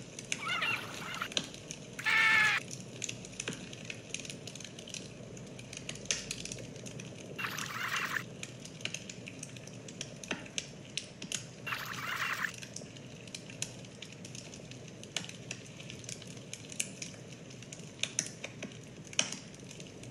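Scattered light clicks of typing on a computer keyboard over a low steady hiss, with four brief high squeaks, the loudest about two seconds in.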